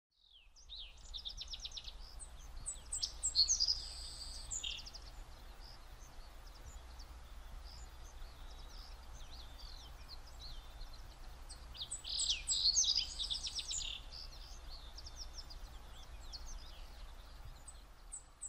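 Songbirds singing: two busy bouts of rapid trills and chirps, one about a second in and one about twelve seconds in, with scattered short chirps between, over a steady low rumble.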